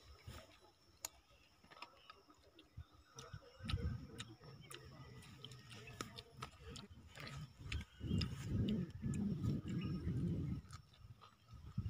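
Close-up eating sounds: a man chewing fermented rice with raw mango and small onion, with many sharp crunchy clicks and two louder stretches of wet chewing, the longer one about eight seconds in. Between bites his hand squishes the watery rice in a clay pot.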